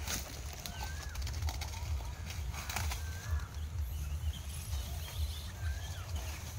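Outdoor ambience in dry woodland: a bird repeats a short slurred whistle every second or two over a steady low rumble, with faint crackles of dry leaves underfoot.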